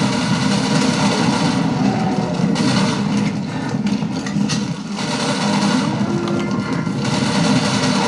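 Video game sound played back through the Armaggeddon X-Bar 2 soundbar: a steady low rumble with scattered sharp clicks.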